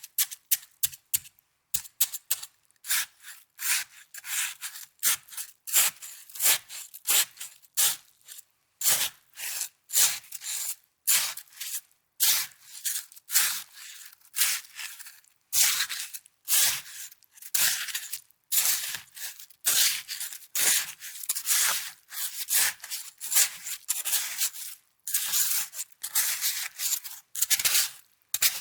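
Snow crunched and rubbed close to the microphone in a run of short, crisp strokes, about one or two a second, with faster light ticks at the start.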